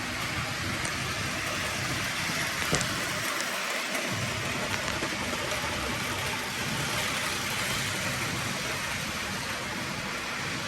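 Bachmann 2-8-0 model steam locomotive running steadily around the track at about 80% throttle: an even whirr of its small electric motor and wheels on the rails, with one sharp click about three seconds in.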